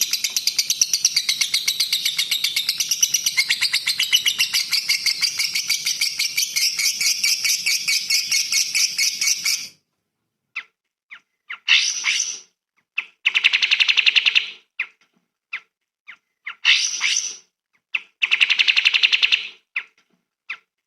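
Recorded songbird song. First comes a dense, rapid chattering song, which cuts off about ten seconds in. After that come short separate phrases, alternating high sharp bursts with rattling chatter, a few seconds apart.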